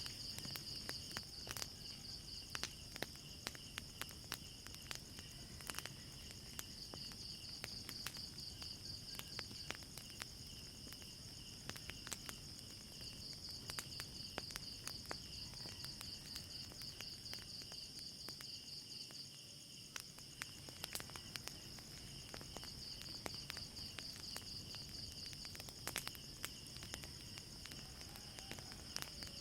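Crickets chirping in steady, pulsing trills, with frequent sharp crackles and pops from a wood fire scattered throughout.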